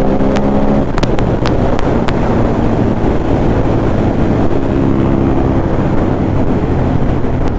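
Ducati Monster 821's L-twin engine running under way, its note rising slightly in the first second, then steadying under wind rush on the microphone. A few sharp clicks in the first two seconds.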